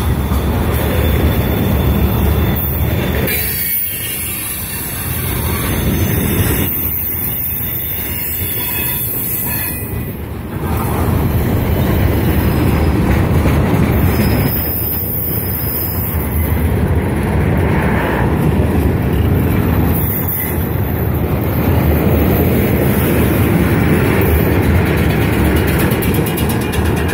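Freight train cars (covered hoppers, tank cars and flatcars) rolling past close by: steel wheels running on the rails in a steady loud rumble, with thin high wheel squeals at times.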